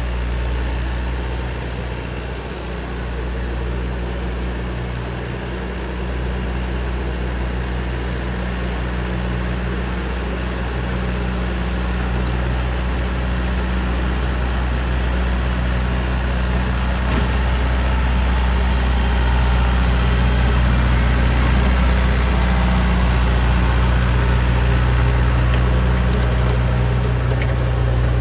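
Massey Ferguson 2630 tractor's four-cylinder diesel engine running steadily while driving an eight-foot rotavator. It grows a little louder over the second half.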